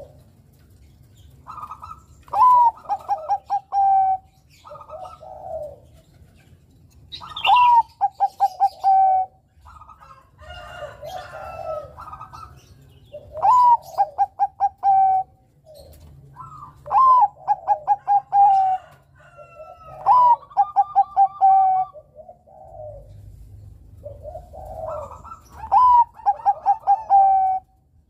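Zebra dove (Bangkok-strain perkutut) cooing its song over and over, a phrase about every three seconds. Each phrase opens with a rising note and runs into a quick string of short coos that step slightly down.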